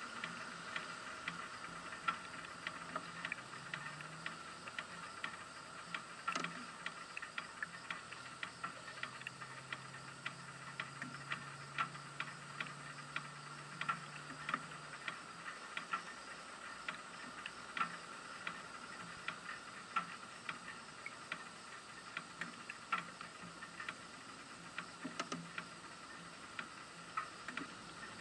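Faint, muffled riding noise on a Honda Goldwing touring motorcycle: a steady hiss with irregular sharp ticks and clicks a few times a second. A faint low hum comes in for a while in the middle.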